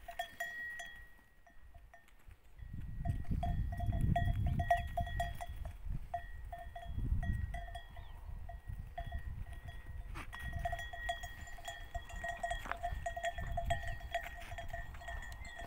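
Bells hung on grazing goats jingling with fast, irregular strikes as the goats move, fading for a moment about a second in, with patches of low rumbling noise.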